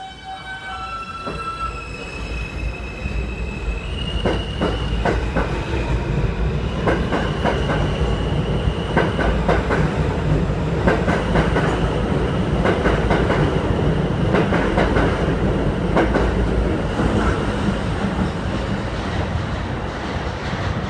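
R160 subway train pulling out and accelerating. Its motors give a whine that steps up in pitch over the first few seconds, then the train settles into a loud run of rumble, wheel squeal and clacking over the rail joints.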